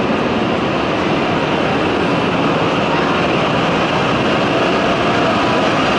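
E7/W7 series Hokuriku Shinkansen train rolling along the platform, a steady running noise of the cars and wheels at an even level.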